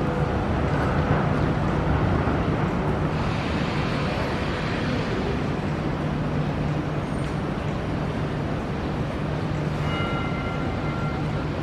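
City traffic noise: a steady rumble of passing vehicles under a constant low engine hum. A louder rush of hiss comes about three seconds in, and a brief faint high tone sounds near the end.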